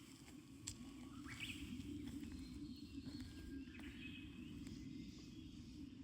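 Faint bird chirps and calls, a short rising call about a second and a half in and more chirping around four seconds, over a steady low background rumble.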